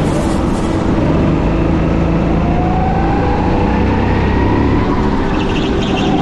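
Go-kart engine running under load, its pitch rising and falling as the throttle is worked through the corners.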